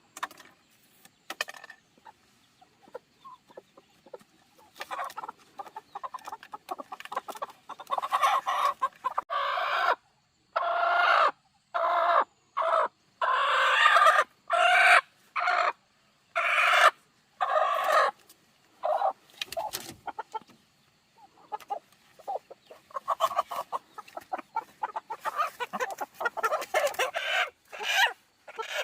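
Chickens clucking and squawking in a long run of short calls, loudest through the middle.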